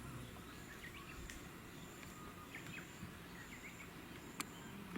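Outdoor ambience with small birds chirping now and then over a steady low background noise, a high thin note coming and going in short dashes, and a sharp click about four seconds in.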